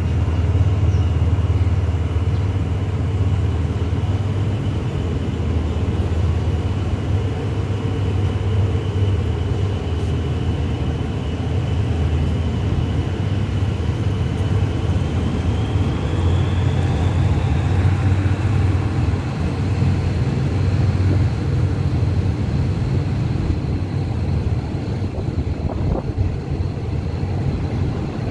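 Diesel-hauled passenger train pulling out of a station and gathering speed, heard from beside a coach: a steady low drone from the running train, with a thin whine that rises in pitch about halfway through and then holds.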